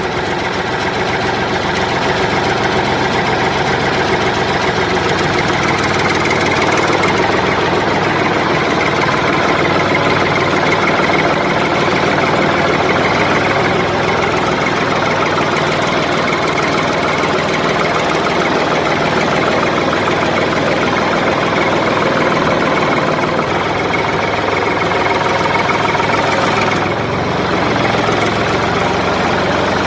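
A steady, engine-like mechanical running sound, unbroken and even in level.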